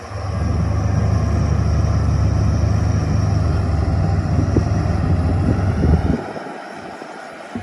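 Shantui DH17-C2 bulldozer's diesel engine running hard, loud and deep, starting just after the beginning and dropping back sharply about six seconds in.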